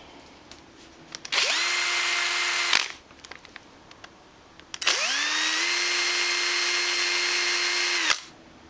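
Metabo SB 18 cordless impact drill run twice: its motor spins up quickly to a steady whine, runs about a second and a half and stops, then runs again for about three seconds and stops. The owner says the motor is defective and stinks badly when it runs.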